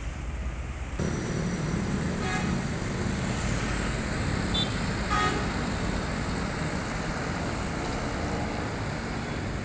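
Road traffic noise with vehicle engines running, rising about a second in, and two brief horn toots about two and five seconds in.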